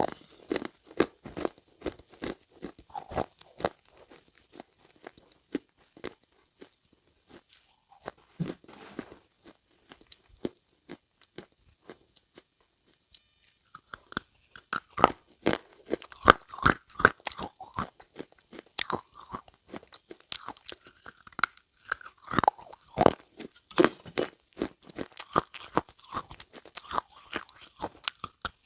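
Irregular crunching and crackling, many sharp snaps in quick succession, thinning out for a few seconds near the middle before picking up again.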